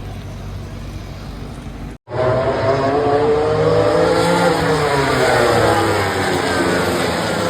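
Several racing motorcycles running at high revs on the track, their engine notes rising and falling over one another as they pass. This comes in after a sudden cut about two seconds in; before it there is a steadier low rumble.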